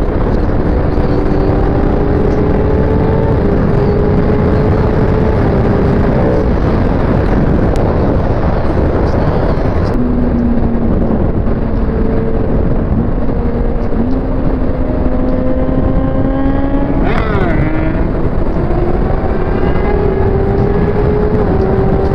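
Kawasaki ZX-6R 636 inline-four sport bike engine pulling through the gears at speed under heavy wind noise. Its pitch climbs slowly in each gear, drops at an upshift partway through, and gives a quick rev up and back down near the end.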